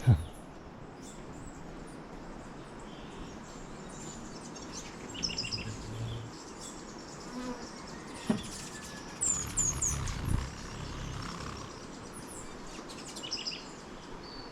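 Hummingbirds at sugar-water feeders: a buzzing hum of wings with short, high, thin chirps several times, and a few brief low bumps.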